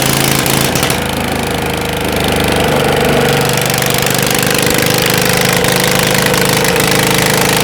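Lister engine, back in running order after standing for some years, running steadily with a rapid, even beat; its note shifts briefly about a second in, then settles.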